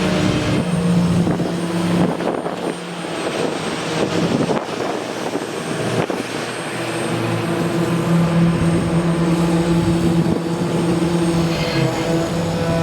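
A steady engine hum: one constant tone with its overtones over a rushing background, thinning for a few seconds after about two seconds in before returning.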